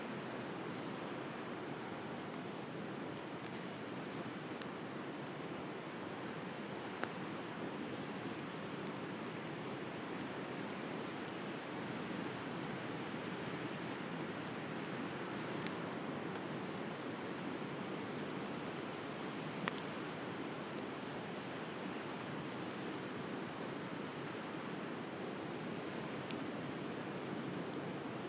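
Wood bonfire crackling, with a few sharp pops scattered every few seconds, over the steady wash of sea surf.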